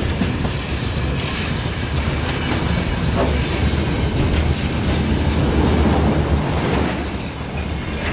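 Freight train wagons rolling past with a steady rumble and wheels clacking over the rail joints.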